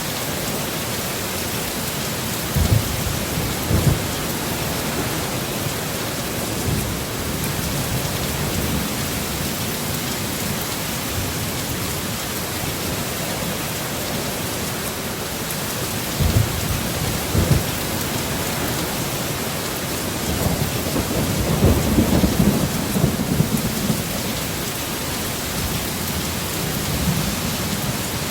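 Heavy, steady rain in a thunderstorm. Short low thumps come about three and four seconds in and again around sixteen and seventeen seconds in, and a longer rolling rumble of thunder builds about twenty-one seconds in and dies away a few seconds later.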